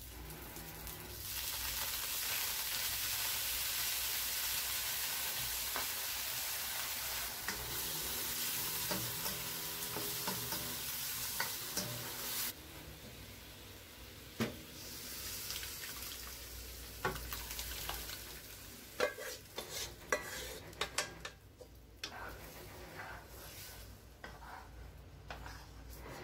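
Eggplant pieces frying in a hot nonstick wok, sizzling steadily and louder from about a second and a half in. The sizzle drops off suddenly about halfway through, and then a plastic spatula clicks and scrapes against the wok as the food is stirred.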